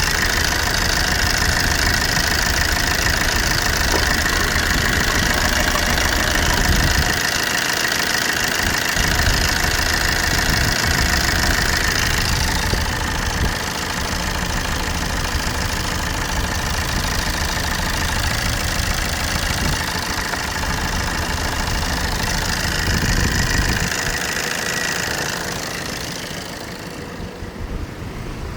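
Opel Combo C's 1.3 CDTi (Z13DTJ) four-cylinder turbodiesel being test-run, idling steadily; it gets quieter in the last few seconds.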